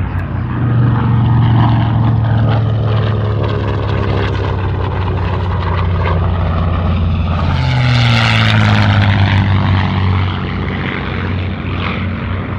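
Piston-engined propeller warbird making a flyby: a steady engine drone that swells and drops in pitch as the aircraft passes, about eight seconds in.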